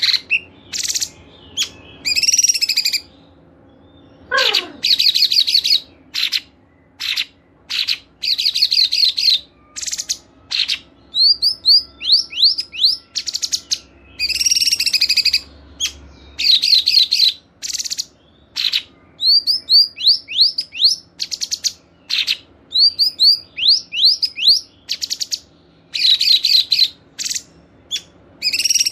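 Songbirds singing in short, fast, high-pitched chattering bursts with gaps between them, broken by runs of quick repeated sweeping notes. One lower note slides steeply down about four and a half seconds in.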